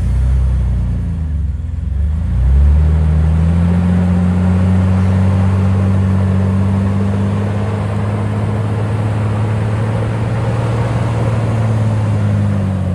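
Jeep engine pulling under load as it crawls over rock: it revs up right at the start, eases off, revs up again about two and a half seconds in, then holds a steady pitch.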